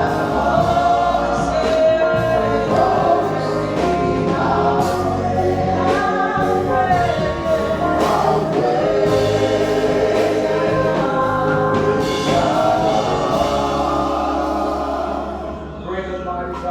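Congregational gospel worship singing: a choir of voices with a sustained bass accompaniment, fading out near the end.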